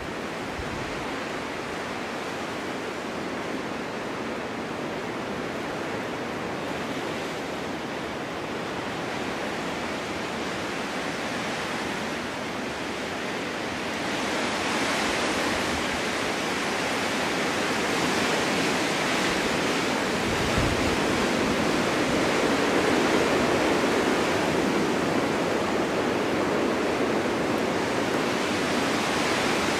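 Snowstorm wind blowing, a steady rushing that swells louder about halfway through, with a brief low rumble of a gust about two-thirds of the way in.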